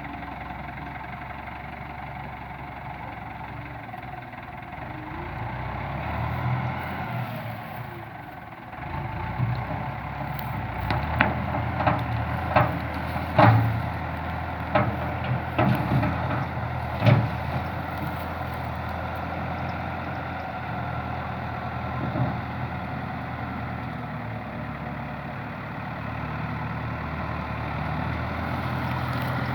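Fendt tractor's diesel engine running steadily, with a string of sharp knocks and rattles about a third of the way in.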